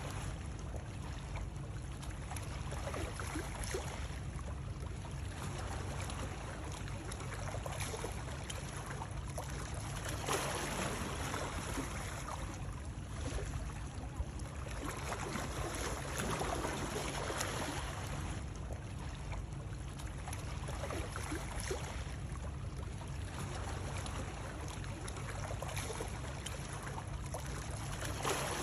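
Running water used as soothing white noise: a continuous rush over a constant low rumble, swelling and easing every few seconds.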